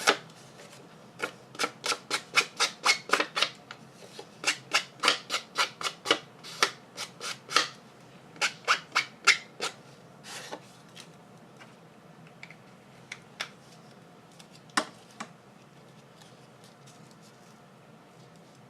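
Ink pad rubbed in quick strokes along the edge of a piece of cardstock, about three scratchy swipes a second. The swipes stop after about seven seconds, leaving a few scattered scrapes and taps.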